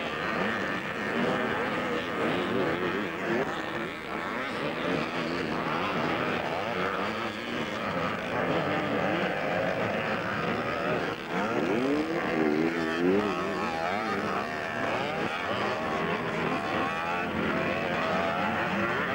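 Vintage 250cc twin-shock motocross bikes racing, several engines revving up and down in pitch as they work around the track. One bike is loudest about twelve seconds in as it passes close.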